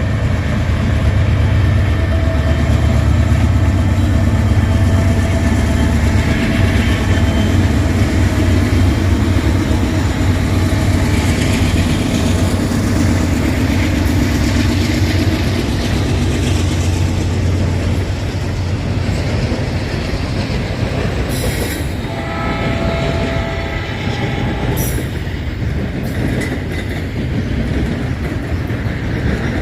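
Diesel-led double-stack freight train passing: a heavy low locomotive engine rumble that eases after about two-thirds of the way, giving way to the clatter of the railcar wheels. About three-quarters of the way through, a train horn sounds a chord for about two seconds.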